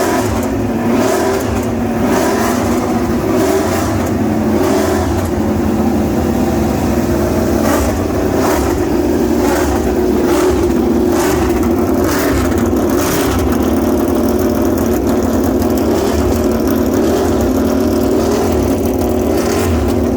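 A motor vehicle running steadily, engine and road noise with a few short knocks about halfway through.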